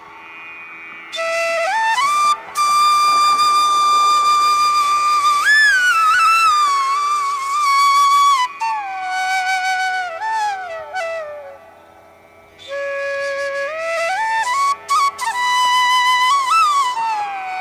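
Slow flute melody of long held notes gliding between pitches, pausing briefly twice, over a faint steady drone.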